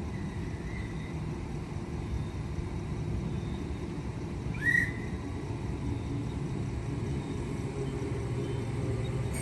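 Low, steady rumble of an electric suburban train running, with one short rising whistle-like squeal about halfway through.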